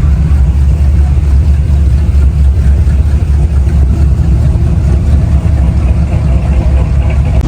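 A car engine idling with a steady, loud low rumble.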